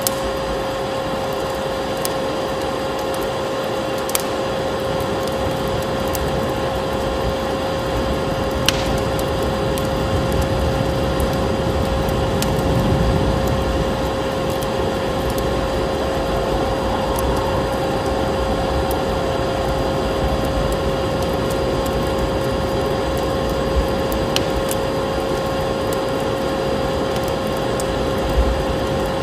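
Steady vacuum cleaner motor running with a constant humming whine, over a crackling fire with occasional sharp pops.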